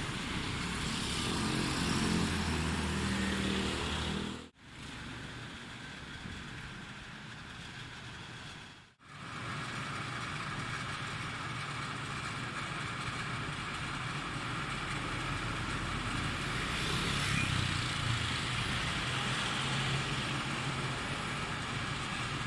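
Road traffic noise: vehicle engines running and passing, a steady rumble with hiss. It comes in three stretches, broken by two brief drops to silence.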